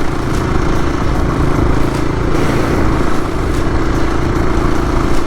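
Adventure motorcycle engine running steadily under way, its even drone mixed with a broad rushing noise.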